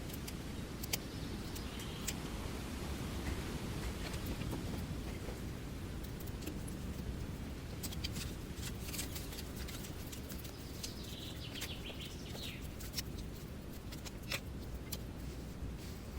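Outdoor ambience: a steady low rumble with scattered sharp clicks, and a few faint bird chirps about two seconds in and again around eleven seconds in.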